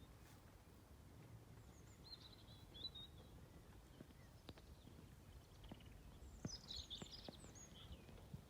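Near silence with faint birdsong: a short twittering phrase about two seconds in and a longer one around seven seconds, with a few soft clicks.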